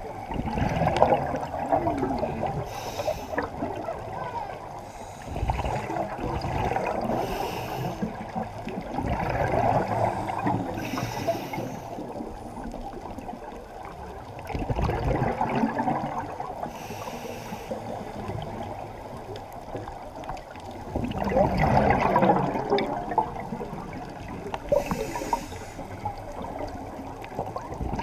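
Scuba diver breathing through a regulator underwater: a bubbly exhalation every few seconds, with a short hiss of inhalation between them.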